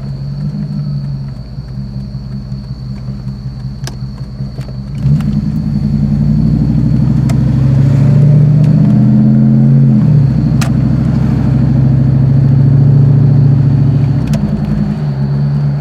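Jeep Grand Cherokee's 5.2 Magnum V8, on Magnaflow dual exhaust, cruising steadily, then opening up about five seconds in with the revs climbing. The pitch drops about ten seconds in at an upshift, and the engine pulls on loudly before easing off near the end.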